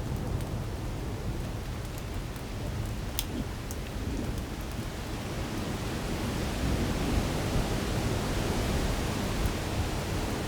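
Heavy rain pouring down in a storm, a steady rushing hiss over a deep rumble, with a few sharp ticks a few seconds in. The downpour grows louder about six seconds in.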